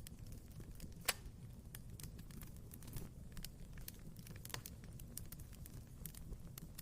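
Wood fire burning in a fireplace, crackling with irregular sharp snaps over a low steady rumble of the flames, with one loud pop about a second in.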